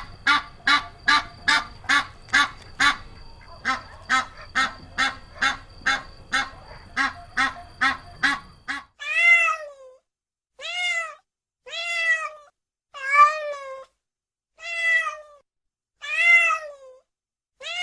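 Domestic animal calls: a fast run of short, evenly repeated calls, about two and a half a second, for about nine seconds. Then, after an abrupt change, seven longer calls, each about a second and rising then falling in pitch.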